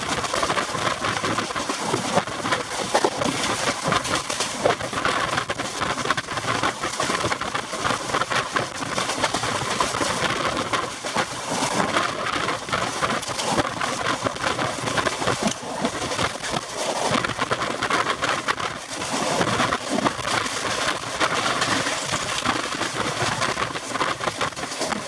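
Express passenger coach running at about 100 km/h, heard from its open door: a steady rush of air mixed with the rattle and clatter of the wheels on the rails.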